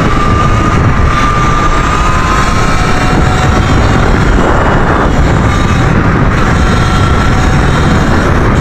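Electric dirt bike's motor whining at a steady, slightly rising pitch while riding, under heavy wind rumble on the microphone.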